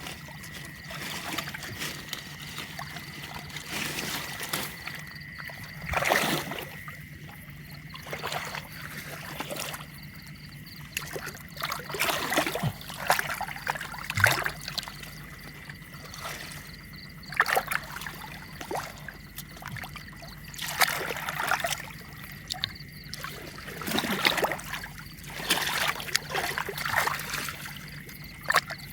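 Shallow canal water splashing and sloshing in irregular bursts every second or two, over a faint steady high whine.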